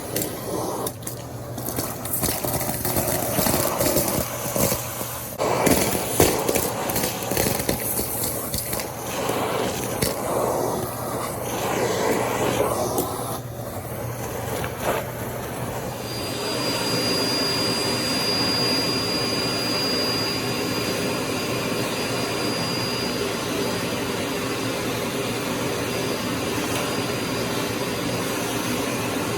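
Canister vacuum cleaner running, its suction noise uneven and shifting for the first half, then settling into a steady rush with a thin high whistle from about halfway through.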